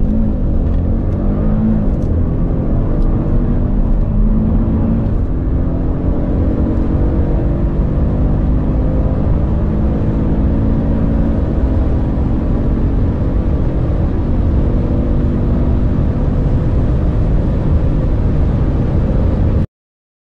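Audi RS3's turbocharged 2.5-litre five-cylinder engine accelerating hard at full throttle through the gears. Its pitch climbs and drops back at each upshift, three times in the first dozen seconds, then it keeps pulling until it stops abruptly near the end.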